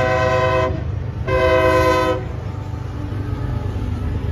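Diesel locomotive air horn sounding two blasts, the first ending under a second in and the second lasting about a second, over the low rumble of a train.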